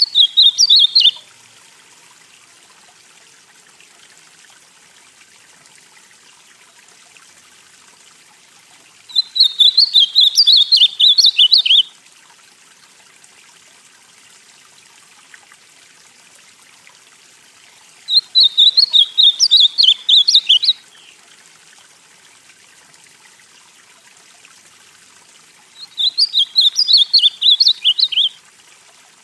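Ultramarine grosbeak (azulão), northeastern song type, singing: a warbled phrase ends about a second in, then three more phrases of two to three seconds each follow at intervals of about eight seconds.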